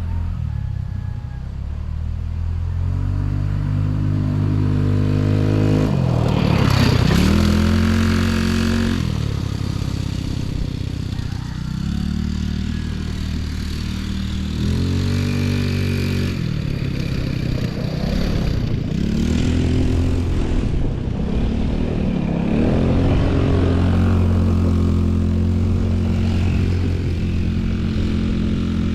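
Dirt bike engine running under throttle, its pitch repeatedly climbing and dropping as it accelerates and backs off, with a brief rush of noise about a quarter of the way in.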